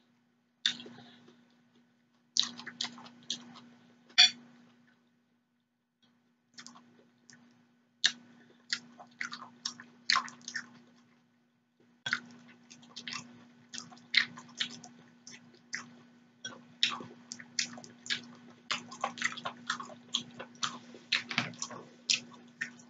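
Close-miked chewing and wet mouth noises of someone eating soft noodles and vegetables: quick smacks and clicks in runs, with a couple of short pauses.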